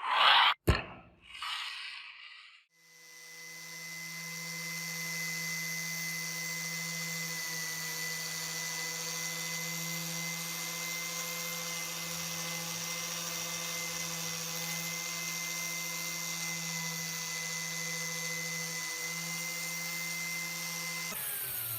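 A few short scraping strokes, then a small electric power tool motor starts, winds up over about two seconds and runs at a steady speed with a steady hum and whine.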